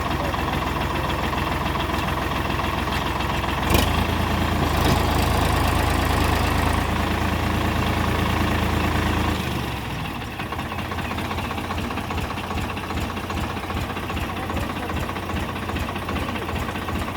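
Solis 5015 tractor's diesel engine running with a steady low pulse. A sharp knock comes about four seconds in, the engine runs louder for several seconds, then a little past halfway it drops to a lower, quieter pulsing note.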